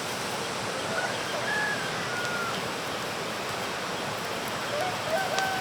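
Steady rushing outdoor background noise, with two short whistled calls, one about a second in and one near the end.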